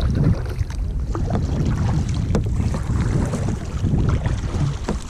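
Wind buffeting the microphone in a steady low rumble, with faint splashes of kayak paddles dipping into the water.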